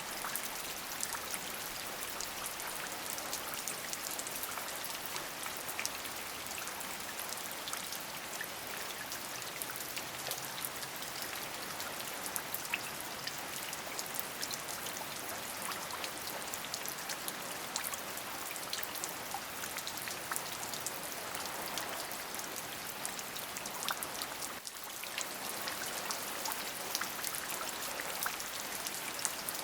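Steady rain: an even hiss with many separate drops striking close by. It dips briefly about twenty-five seconds in.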